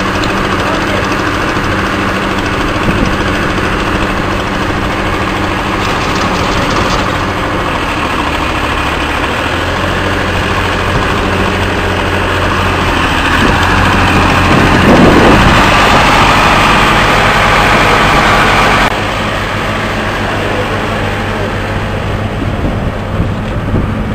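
A heavy engine running steadily at a low idle, climbing to a louder, higher run about two-thirds of the way through, then dropping back abruptly.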